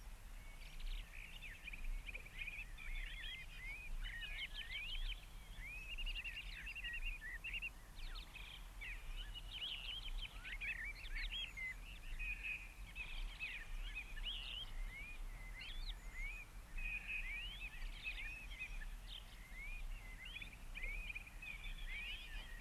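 Many small birds chirping and twittering without a break, over a low steady hum.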